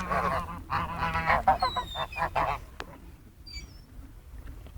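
A crowd of waterfowl calling loudly over one another for the first two seconds or so, then quieter, with a few thin, high gliding cries.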